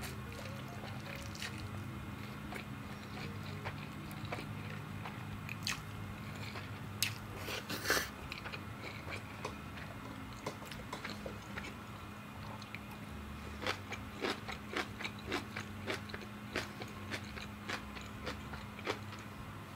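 Close-miked eating: soft chewing of mi goreng noodles, with two louder sharp clicks a little before the middle, then from about two-thirds of the way in a run of crisp crunches, about one or two a second, as crunchy white kimchi is chewed.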